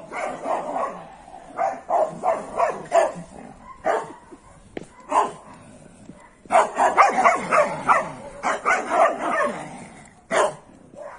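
A small dog yipping and barking in quick runs of short high calls, with a busier flurry in the second half.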